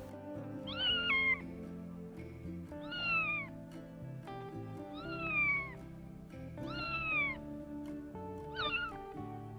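An animal calling five times, about every two seconds, each call short and high and falling in pitch, over soft background music.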